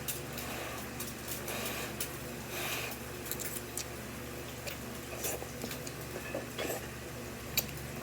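Someone eating black bean noodles: scattered small wet clicks and smacks of chewing and utensils, with a sharper click near the end, over a steady background hum.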